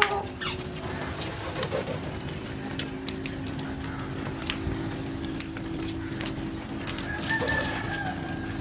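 Birds calling, with scattered short clicks and taps throughout and a longer call about seven seconds in.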